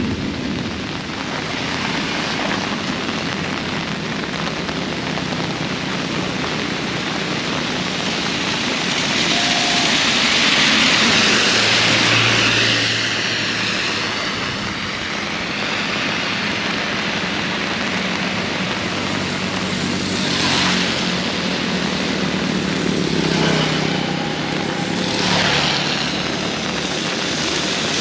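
Very heavy rain falling in strong wind: a loud, dense, steady rush of noise that swells several times.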